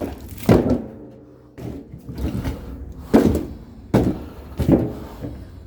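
Firewood logs knocking and thudding as they are tossed onto a pile: a handful of heavy wooden thuds, roughly a second apart, with weaker knocks between.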